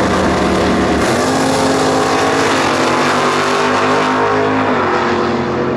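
Drag-racing muscle car engine running loud at high revs, its pitch holding nearly steady, stepping up about a second in and dropping back near the end.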